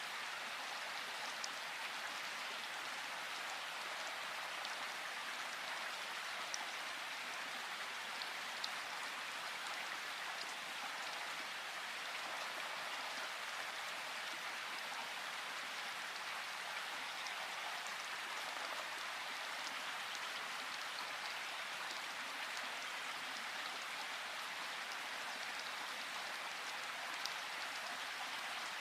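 Steady rain falling in a forest, an even hiss with a few single drops ticking out a little louder here and there.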